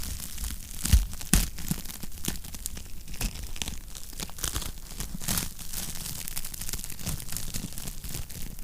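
Wood fire crackling in a fireplace: a steady crackle of small pops and snaps, with two louder pops about a second in.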